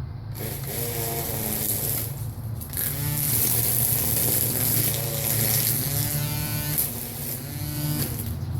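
Small string trimmer running and cutting, its high whine wavering in pitch, easing off for a moment about two seconds in, then stopping shortly before the end. A steady low hum runs underneath.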